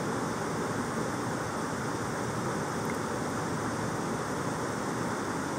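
Steady rush of a small river waterfall, an even unbroken noise.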